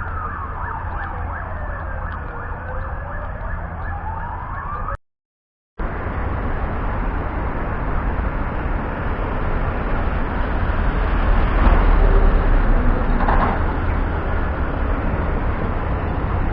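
An emergency vehicle's siren wailing, one slow fall and rise in pitch over street traffic, cut off by a short dropout about five seconds in. After that comes steady traffic rumble, which swells a little past the middle.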